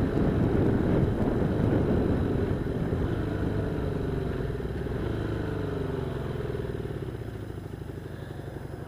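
1978 Honda Hawk 400's parallel-twin engine running during a ride, its revs falling steadily from about three seconds in as the bike slows.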